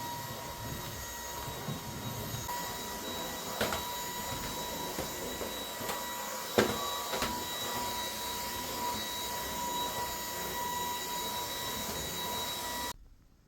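A small electric machine running steadily with a thin whine, with a few sharp clicks along the way, then cutting off abruptly near the end.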